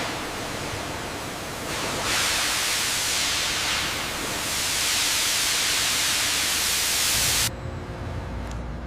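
A loud, steady hiss with no distinct tone, stepping up louder about two seconds in and cutting off suddenly near the end.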